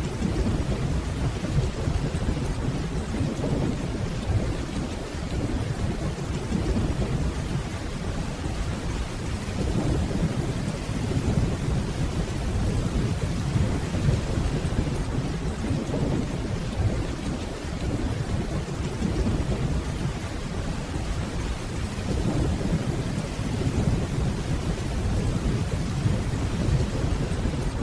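Steady rainfall with low, rolling distant thunder rumbling underneath. The rumble swells gently a few times and never cracks sharply.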